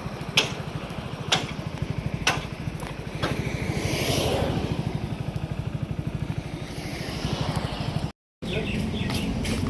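Small motorcycle engine running steadily on the move, with a sharp click about once a second for the first few seconds and a rush of noise around the middle. The sound drops out for a moment near the end.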